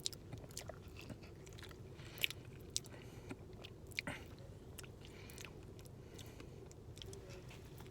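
A person chewing a mouthful of burrito, with scattered small crunches and wet mouth clicks, louder about two seconds in and again around four seconds in.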